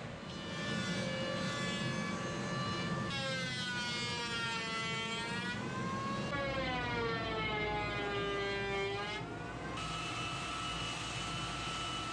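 Electric motor of a handheld power tool running, its whine dipping in pitch and recovering twice as the tool is loaded in the wood.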